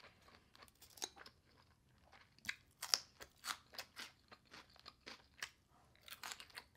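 Close-miked chewing of crunchy raw vegetables from a poke bowl: irregular crisp crunches with the mouth closed, loudest about three seconds in.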